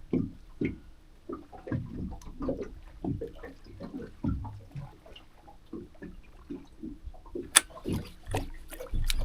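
Small waves lapping and slapping against a boat's hull in irregular short splashes, with a couple of sharp clicks near the end.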